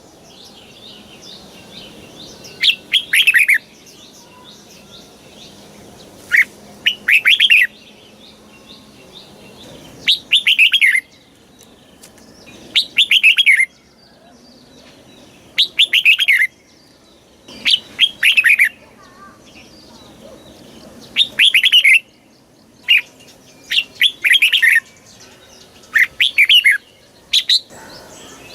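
Red-whiskered bulbul singing: short, bright phrases of a few quick descending notes, each about a second long, repeated every two to three seconds.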